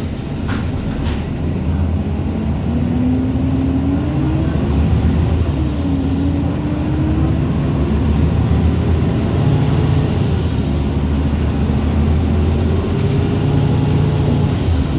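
MAN Lions City G articulated bus running, its differential and gearbox whining over the steady engine note. The whine rises and falls in pitch as the bus gathers and loses speed. Two short knocks come about half a second and a second in.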